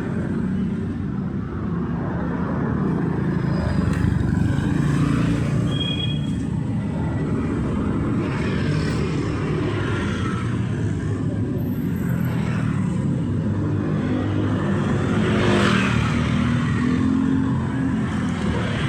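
Road traffic on a city street: a steady low rumble of engines, with the hiss of vehicles swelling up and fading as they pass, several times.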